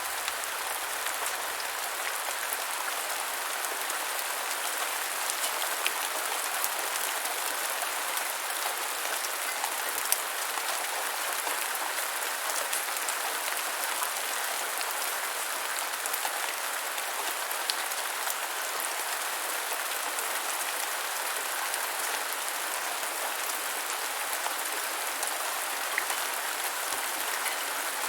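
Steady rain falling on the ground, an even hiss of rainfall with scattered sharp drop ticks close to the microphone.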